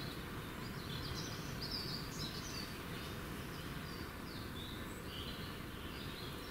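Woodland birdsong: scattered short chirps from small birds over a steady low background noise.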